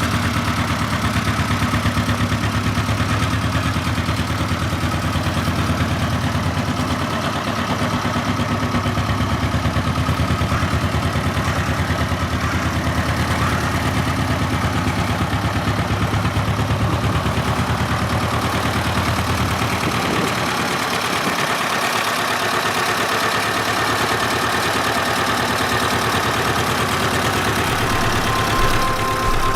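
1961 Kubota vintage tractor's engine running steadily at idle with a quick, even firing beat. About two-thirds of the way through its deep low end thins out, while the engine keeps running at much the same level.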